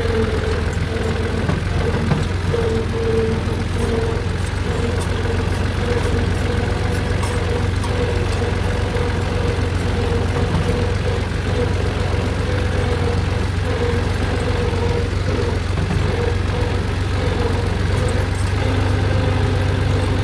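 Farm tractor's diesel engine running steadily: a constant low drone with a steady higher tone over it.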